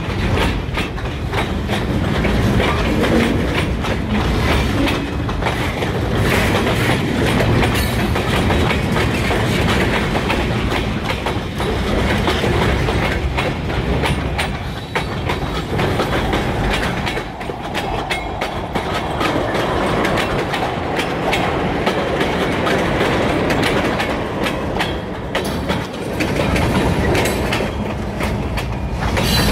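Freight train of boxcars and tank cars rolling past at close range: a steady loud clatter of steel wheels on rail, with a running series of clicks as the wheels cross the rail joints.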